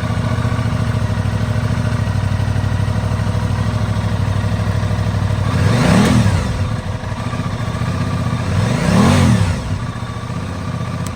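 2021 Aprilia Tuono 660's parallel-twin engine idling steadily just after starting, with two quick throttle blips about six and nine seconds in that make the engine rev up and settle back.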